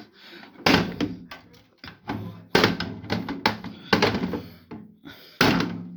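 A hammer banging on a microwave oven whose door is not working: four heavy blows about every one and a half seconds, with lighter knocks between them.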